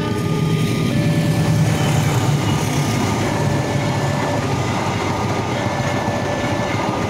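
Passenger train passing over a level crossing, the carriages running by with a steady rumble that is loudest in the first half. Over it the crossing's electronic warning signal alternates between two tones about once a second.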